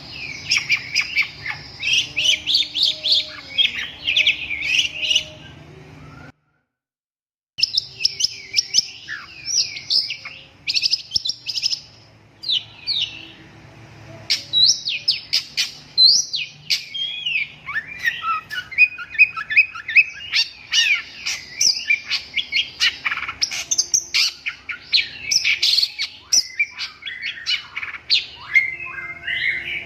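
Long-tailed shrike (cendet) singing a fast, varied string of chirps, trills and sweeping notes, cut by about a second of total silence about a fifth of the way in.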